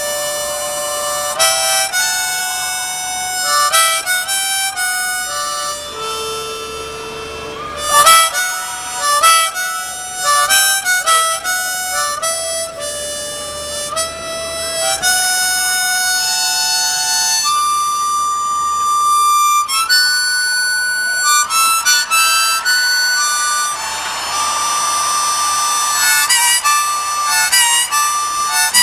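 Harmonica playing a melody of held notes and quick runs, with little else underneath, as the intro to a live rock song.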